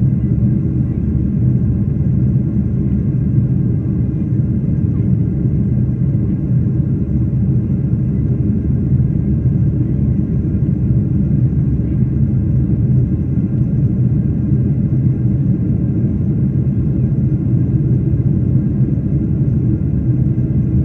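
Steady rumble of an airliner's engines and airflow heard inside the passenger cabin, unchanging throughout, with a faint thin hum above it.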